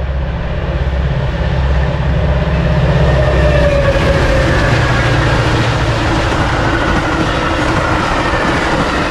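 Outbound Metra commuter train passing close by. A low engine drone from the locomotive is heard for about the first five seconds, then fades, leaving the steady wheel-on-rail noise of the passing coaches.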